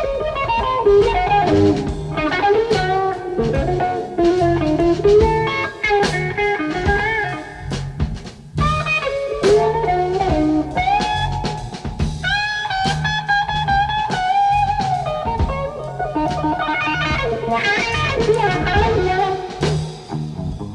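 Electric blues guitar solo with bent notes and wide vibrato, backed by bass and drums.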